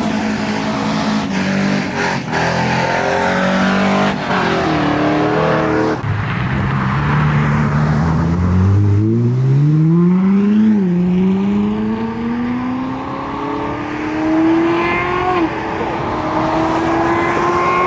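Car engine running loud, then accelerating hard: from about 8 seconds in its pitch climbs steeply, dips briefly at a gear shift, and keeps climbing through another shift near the end.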